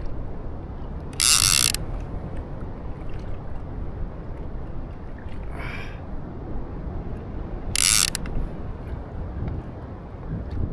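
Fishing reel's drag buzzing in two short bursts as a hooked fish pulls line off against it, about a second in and again near eight seconds, with a fainter burst between.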